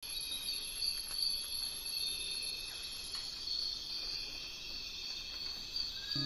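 Steady high-pitched trilling of an insect chorus, with a few faint short chirps. A plucked guitar tune comes in at the very end.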